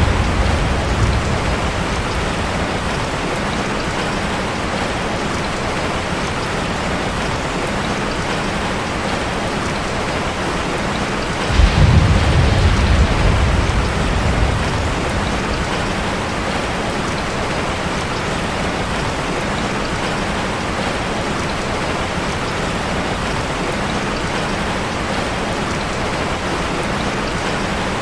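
Steady rain pattering on a metal roof. A deep rumble of thunder starts suddenly about twelve seconds in and dies away over about three seconds, and the tail of an earlier rumble fades out at the start.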